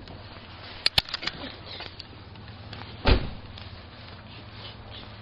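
A few sharp clicks about a second in, then a single heavy thump about three seconds in, from a 2002 Honda Civic's door being shut.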